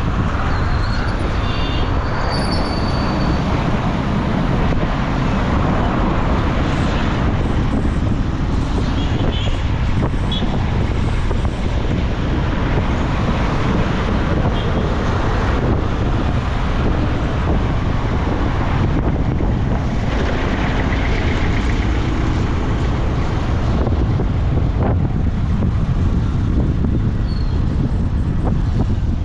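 Steady traffic noise from a ride on a boda boda motorcycle taxi: the motorcycle's engine and road noise mixed with surrounding city traffic, with a few brief faint high tones about two to three seconds in.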